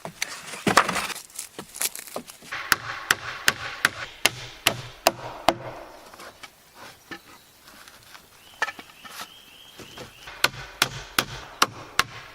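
A hammer driving nails into wood, with sharp strikes about three a second in two runs and a pause in between.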